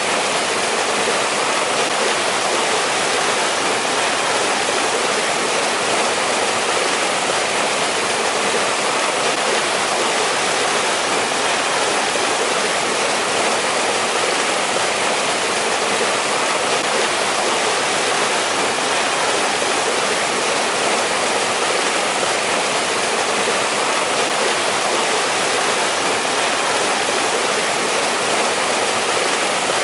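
A mountain valley stream flowing and splashing over rocks in a steady, unbroken rush.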